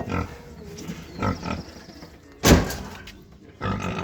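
Domestic pig grunting in short separate bursts, with a loud harsh burst about two and a half seconds in.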